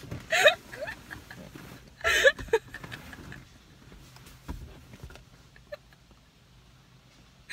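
A person's voice making two short, high-pitched wordless squeals, about two seconds apart, in playful laughter.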